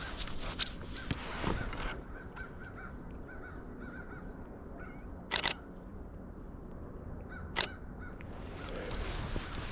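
Crows cawing over and over, with two short clattering camera-shutter bursts, one about five seconds in and one about seven and a half seconds in.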